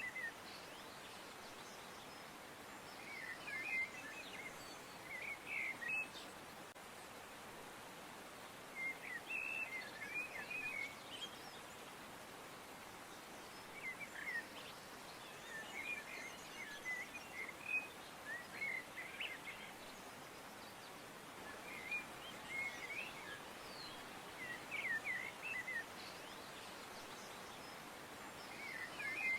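Small birds chirping in short bursts of quick, high notes every few seconds over a steady outdoor hiss.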